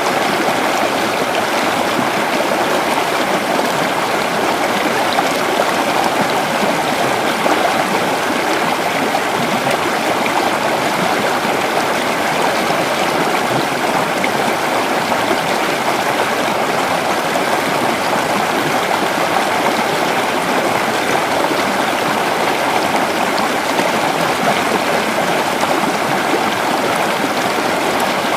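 Creek water flowing over rocks, a steady, even rush and babble.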